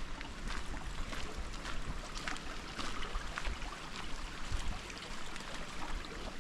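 Footsteps crunching on a forest track, with irregular sharp crackles several times a second over a low rumble.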